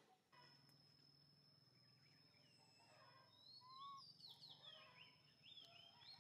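Faint outdoor ambience: a steady high-pitched tone throughout. From about two and a half seconds in comes a run of quick bird chirps that slide up and down.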